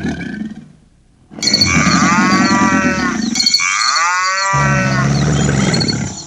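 Cow mooing: two long moos, one after the other, starting about a second and a half in.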